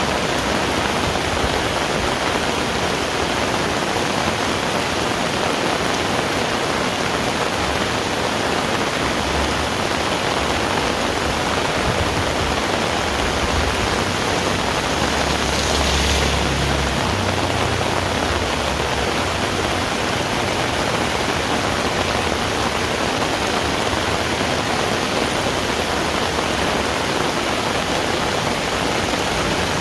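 Heavy rain falling steadily in a dense, even hiss. A low rumble swells about a third of the way in and fades a little after the middle, with a brief brighter hiss around the middle.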